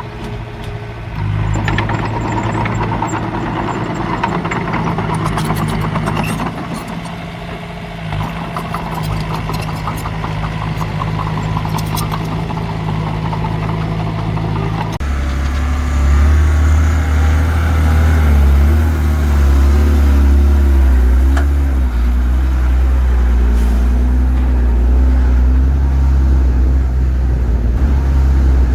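Heavy diesel earthmoving machinery running: a steady engine with metallic clanking for the first half, then an abrupt change about halfway through to a deeper, louder engine.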